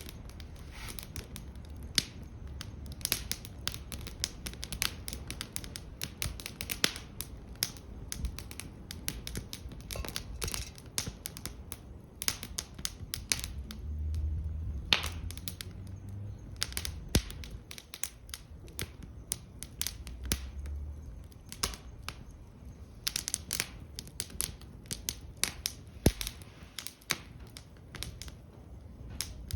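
Wood fire crackling in a fire stand, with many irregular sharp pops and snaps. A low rumble comes in briefly about halfway through.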